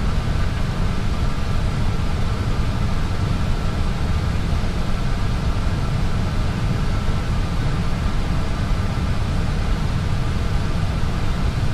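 Steady cockpit noise of an Airbus A320 taxiing: a constant low rumble from the idling engines and air conditioning, with a faint steady hum above it.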